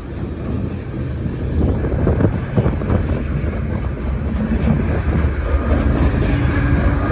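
Freight cars rolling past close by: a steady low rumble with wheels clacking over rail joints a couple of seconds in. Near the end a diesel locomotive's engine hum comes in and grows as a mid-train locomotive draws near.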